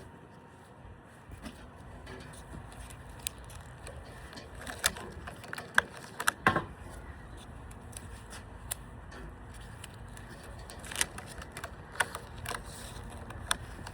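Rubber bands being stretched and snapped one by one onto a watermelon, heard as scattered sharp snaps and clicks at irregular intervals, several close together about five to seven seconds in and again near the end.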